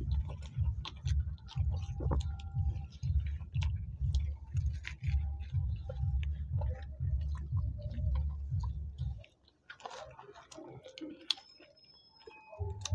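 Close-miked chewing and wet mouth sounds of people eating soft luchi with aloo dum (potato curry) by hand, a steady rhythmic chewing with many small lip-smacking clicks. The chewing drops away about nine seconds in and picks up again near the end.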